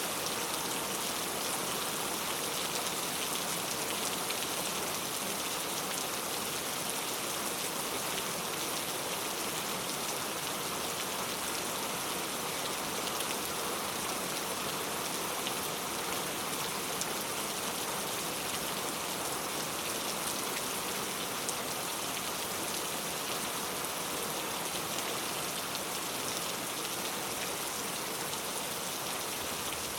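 Heavy rain falling steadily, with a constant hiss of drops pattering on a surface.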